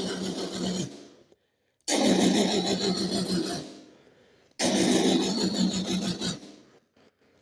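Jackhammer drilling sound effect in repeated bursts of about two seconds, each cutting in suddenly and trailing off, roughly every two and a half seconds: the hammer breaking through hard limestone.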